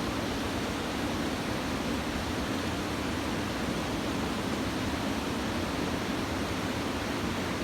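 Steady rushing noise of surf from a swell raised by a typhoon, even throughout with no single wave crash standing out.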